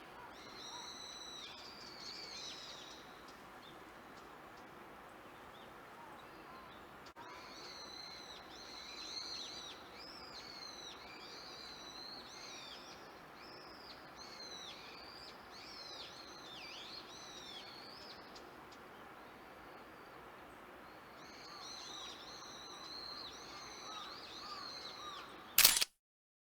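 Small songbirds chirping and twittering in three spells of quick, high notes. Near the end there is one short, loud crackle, and then the sound cuts off.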